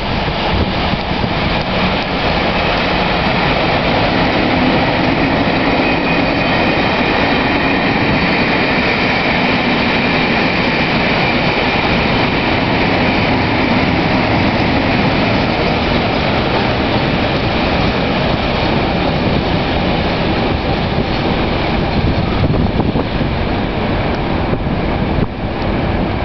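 A British Rail Class 31 diesel locomotive passing close by at low speed with Network Rail maintenance coaches, the engine running as the locomotive goes past, then steady wheel and rail noise as the coaches roll by. A faint high whine holds for several seconds in the middle. A second Class 31 is at the rear of the train.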